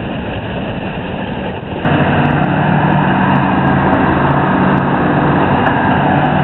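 Heavy diesel engine of large machinery running steadily with a low hum. About two seconds in it turns abruptly louder and stays there.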